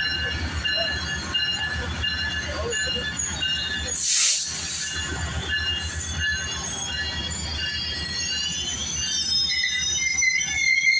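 Metrolink bilevel passenger train rolling slowly past, its wheels squealing in several steady high tones over a low rumble. A short hiss comes about four seconds in, and near the end the squeal grows louder and shifts higher.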